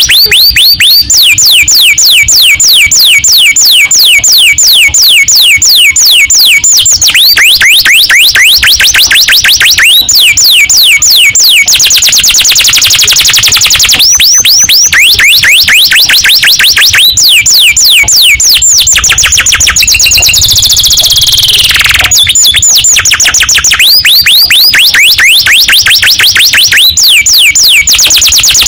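Domestic canary singing without pause in fast rolling trills, the 'ngerek' song style: long runs of rapid downward-sweeping notes, several a second, broken by a long falling whistle about twenty seconds in.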